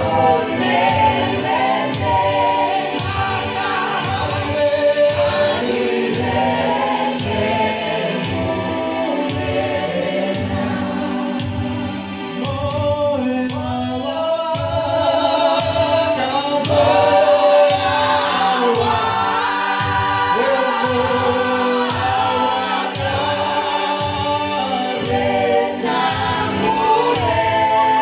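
Gospel song sung by a choir of voices over a steady beat, during a church's song service.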